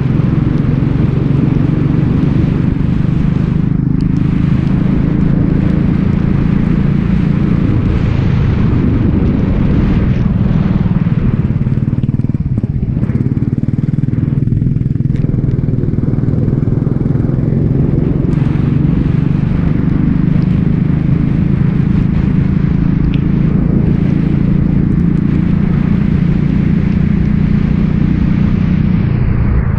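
Racing kart engine running hard through a lap, its pitch rising and falling as it accelerates and lifts off, easing off for a few seconds about twelve seconds in.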